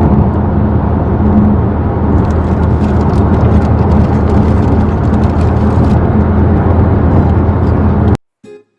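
Steady, loud road and wind noise of a moving car with a low engine drone. It cuts off abruptly near the end, and a few plucked acoustic guitar notes begin.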